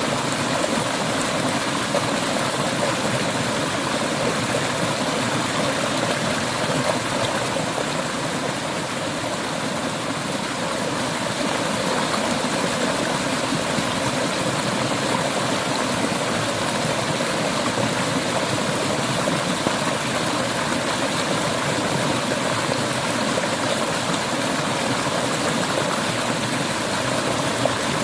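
Clear mountain stream flowing and gurgling over rocks, a steady rushing noise.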